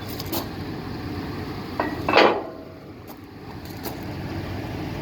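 Metal clanking over a vehicle engine running steadily, with one loud ringing clank about two seconds in and lighter clicks near the start and near the end.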